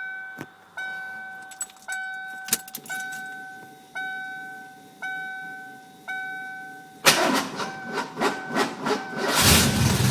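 A car's ignition warning chime dings about once a second, with keys jingling and clicking. About seven seconds in, the starter cranks a 1993 5.0 V8 for about two seconds, and the engine catches near the end and settles into a low idle.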